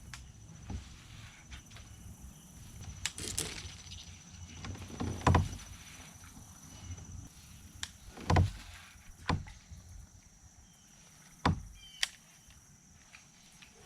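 Scattered knocks and thumps on a plastic fishing kayak, at uneven intervals, as gear is handled and the boat moves on the water. A faint steady high tone runs underneath.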